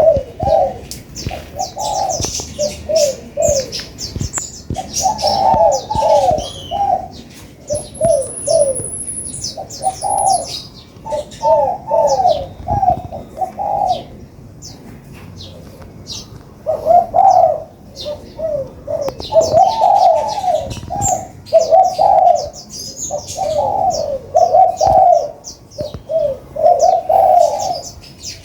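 Spotted doves cooing in repeated short phrases. Over them come quick, high chirps of sunbirds.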